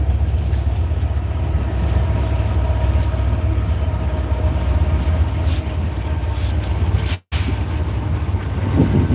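Loaded coal train rolling past: a steady low rumble of heavy freight cars' wheels on the rails, with a faint thin whine above it. The sound cuts out for an instant about seven seconds in.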